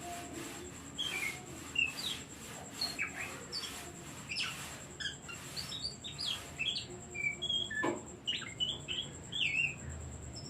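An Oriental magpie-robin (kacer) singing a rapid, varied song of short whistled notes that slide up and down in pitch, with harsher chattering notes mixed in.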